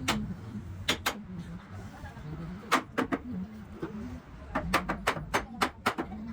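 Sharp hammer strikes, about a dozen in irregular clusters, ending in a quick run of blows.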